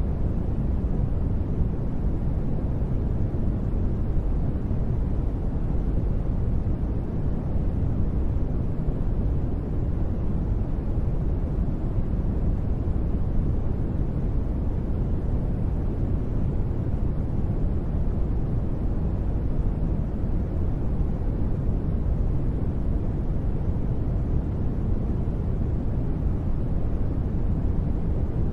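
Continuous sleep-noise track: a steady, deep rushing hiss, weighted toward the low end, that never changes.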